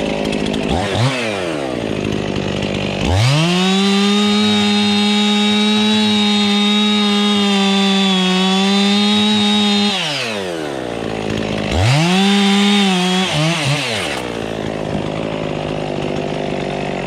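Two-stroke chainsaw cutting a chunk off an oak trunk. It revs briefly about a second in, then holds full throttle for about seven seconds through the cut and drops back to idle. A second, shorter full-throttle burst near the end stutters before falling back.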